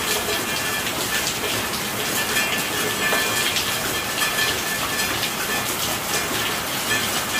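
Steady rain falling: a dense, even hiss with many single drops ticking on a hard surface.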